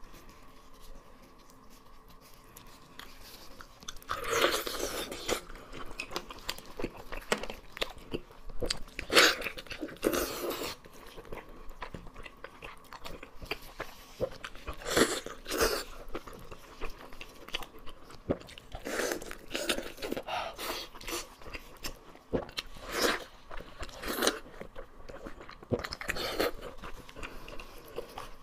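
Close-miked chewing and biting of braised sheep head meat and skin: wet, smacking mouth sounds in bursts, starting about four seconds in, with crunchy bites among them.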